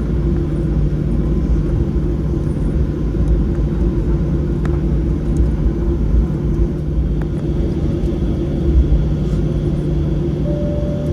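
Steady rumble and drone of a Boeing 737-700 in motion, heard inside the cabin: its CFM56-7B jet engines and the airflow make an even roar with humming tones. Near the end a short chime tone sounds.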